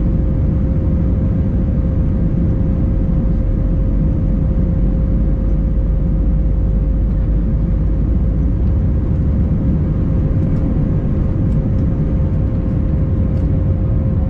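Steady cabin noise inside an Airbus A319 in motion: a deep, even rumble with one constant hum running through it, unchanging throughout.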